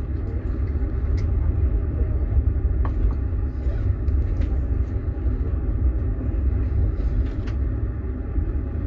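Passenger train running on the rails: a steady low rumble with a few faint, irregular clicks.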